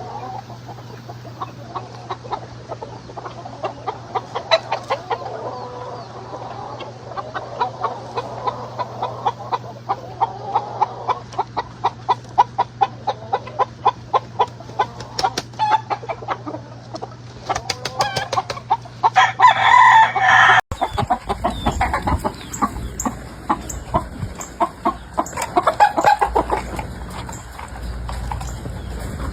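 A flock of gamefowl chickens clucking in quick, repeated calls, with a rooster crowing loudly about two-thirds of the way through. The background changes abruptly just after the crow.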